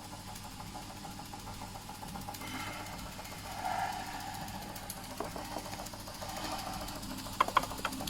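Doll & Co 339/2 live-steam stationary model steam engine from 1936–38 running steadily with a fast, even mechanical beat. It has been left to run until its boiler runs out. A few sharp clicks come near the end.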